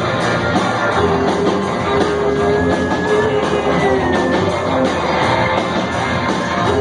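Live rock band playing loud: electric guitars over a drum kit keeping a fast, steady beat, with a few held guitar notes.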